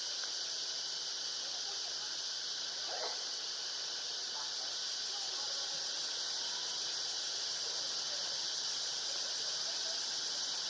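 A steady, high-pitched insect drone, with a few faint, short monkey squeals over it; the clearest squeal comes about three seconds in.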